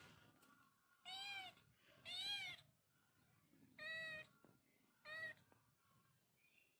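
Kitten meowing four times, high-pitched calls that rise and fall in pitch, the last one short.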